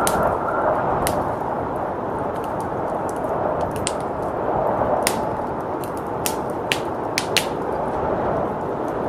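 Wood fire crackling with sharp, irregular pops over the steady rushing of blizzard wind.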